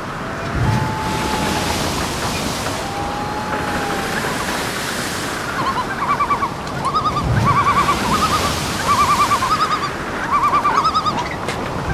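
A steady rushing noise throughout, with a bird calling in quick runs of short, quavering notes, repeated seven or eight times from about six seconds in.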